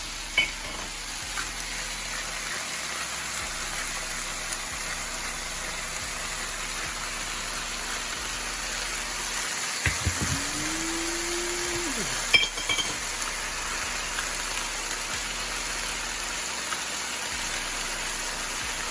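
Stir-fry vegetables sizzling steadily in a hot oiled pan, with a few sharp clinks of a utensil against the pan. About ten seconds in there is a short held tone lasting about two seconds.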